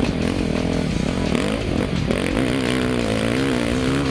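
Dirt bike engine running under changing throttle, its pitch rising and falling several times, then holding steadier and higher near the end.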